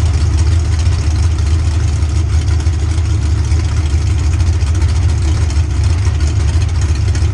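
Big-horsepower mud outlaw race truck's engine idling loudly, a steady deep rumble with a fast, uneven lope.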